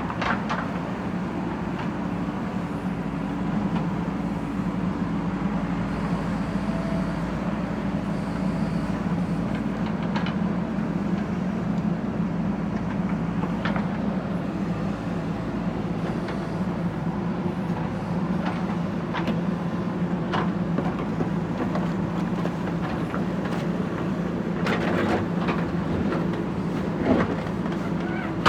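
Backhoe loader's diesel engine running steadily under load, with a few sharp metallic knocks, more of them near the end.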